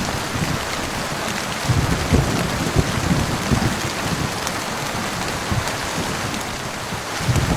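Heavy rain falling steadily in a thunderstorm, with uneven low thunder rumbles that are strongest in the first half.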